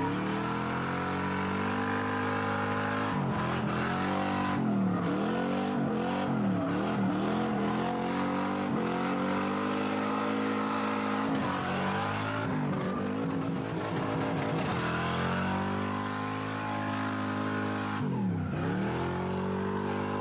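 Car engine revving hard through the whole stretch, its pitch climbing and dropping over and over as the throttle is worked, with tyre noise mixed in, as from a car being driven in skids.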